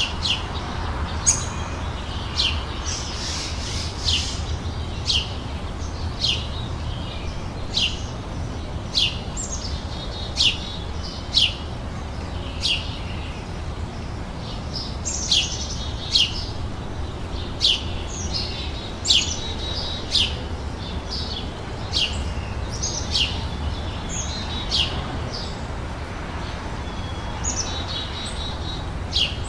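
Birds singing: short, sharp downward-sweeping chirps repeated about once a second, with some softer warbling between them, over a steady low rumble.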